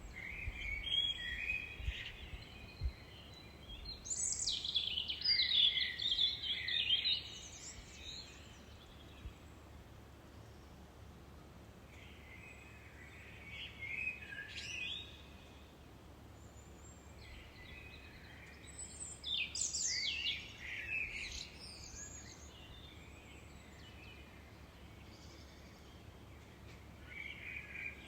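A songbird singing in short bursts of rapid chirps, trills and sweeps, repeated every few seconds, over a steady low background rumble.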